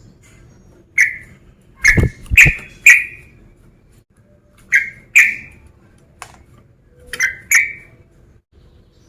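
Male yellow-vented bulbul (trucukan) calling: loud, short, sharp chirping notes in clusters of two to four, with pauses of a second or two between clusters.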